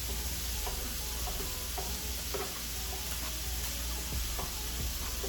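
Fried rice sizzling steadily on a hot griddle while being stirred and turned, with irregular short scrapes and taps of a utensil against the cooking surface.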